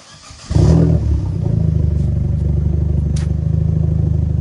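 Vauxhall Corsa VXR Nurburgring Edition's 1.6-litre turbocharged four-cylinder engine bursts into sound about half a second in with a loud flare, as at start-up, then settles to a steady idle with a rapid exhaust pulse.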